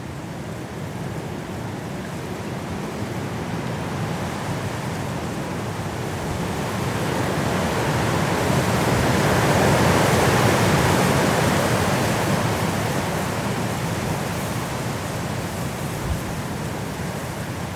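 Strong wind blowing through forest trees in a snowstorm, a steady rushing that builds into a louder gust about halfway through and then eases off.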